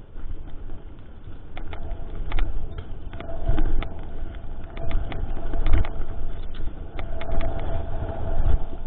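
Mountain bike riding over a rough trail, heard from a bike-mounted action camera: a steady low rumble of tyres and wind on the microphone, with rapid rattling clicks from the bike. A thin steady whine comes in several times, strongest in the middle and near the end.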